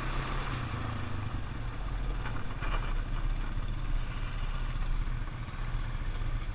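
ATV engine running steadily under way, a low, even drone.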